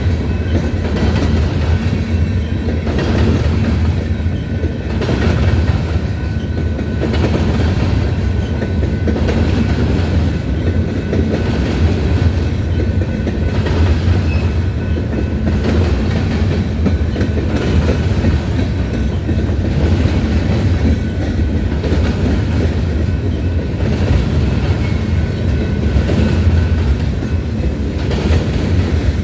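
A grain train's freight cars, covered hoppers, rolling past on the rails. A steady heavy rumble with regular clickety-clack of wheels over rail joints.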